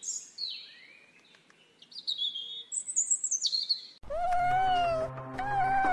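Birds chirping: a run of high, quick calls sliding up and down in pitch. About four seconds in, a cat starts meowing, two long drawn-out meows over background music.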